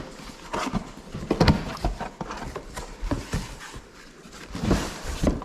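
Irregular knocks, taps and rustling of things being handled, with a few sharper knocks spread unevenly through.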